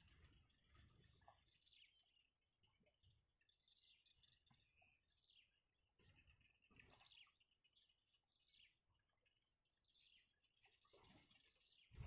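Faint bird chirps: short falling notes, repeated irregularly about once a second, over a thin steady high-pitched whine.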